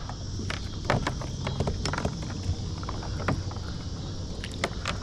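Scattered light knocks and clicks of a bass being landed in a net from a kayak, over a steady low hum.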